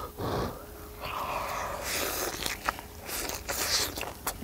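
A person biting into and chewing a large lettuce wrap of grilled pork with pickled radish slices and a chili pepper dipped in ssamjang: wet crunching and smacking, with short sharp mouth clicks through the second half.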